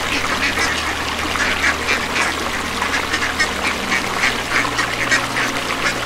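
A flock of mallard ducks quacking, many short calls overlapping in a continuous chatter.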